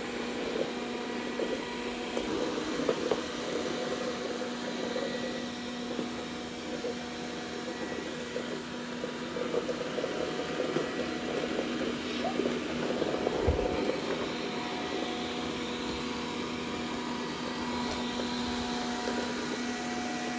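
Dreame D10 robot vacuum running with a steady motor hum and an irregular light rattle as it sucks up Orbeez water beads from the floor.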